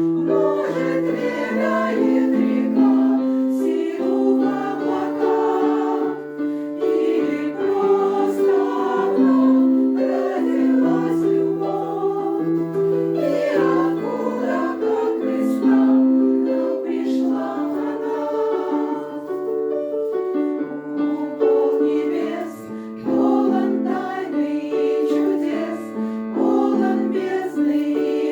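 Choir singing a song in several voices, with instrumental accompaniment carrying a moving bass line.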